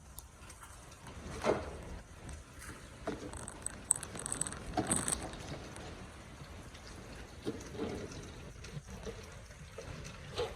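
Wet, slushy street noise in a snowstorm: an even watery wash from the soaked street, with a few louder brief swishes, about one and a half seconds in and again around four to five seconds in.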